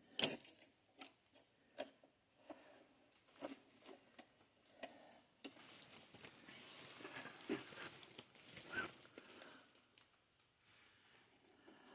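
Plastic packaging and tape being handled and pulled off a new sewing machine: irregular crinkles and small clicks, with a longer stretch of rustling and tearing from about halfway in.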